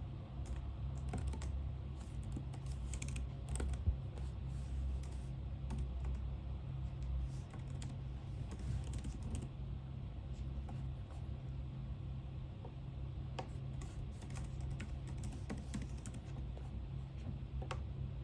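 Typing on a computer keyboard in irregular bursts of clicks, over a steady low hum.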